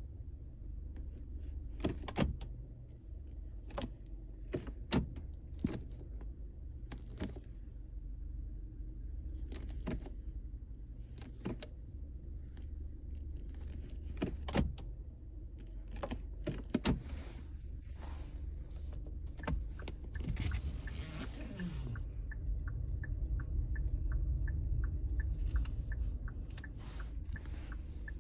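2021 Kia Forte's engine idling under a steady low rumble, with scattered clicks and knocks as the car is shifted between reverse and drive. About two-thirds of the way through comes a falling whine, followed by a quick, regular ticking to the end.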